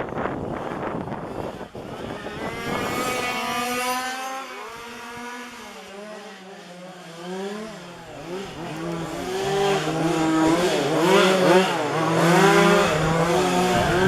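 Small two-stroke petrol engines of 1:5-scale RC racing cars, several at once, revving up and down as the cars lap the track. The engine notes grow louder from about eight seconds in as the cars come closer.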